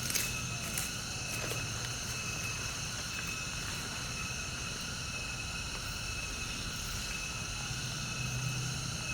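Steady chorus of insects, several unbroken high-pitched tones held without change, over a low hum. A couple of faint clicks come right at the start.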